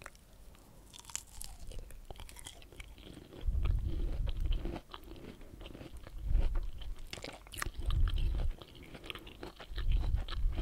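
Close-miked chewing of juicy pomelo flesh: wet bites and mouth clicks, with four louder spells of chewing in the second half.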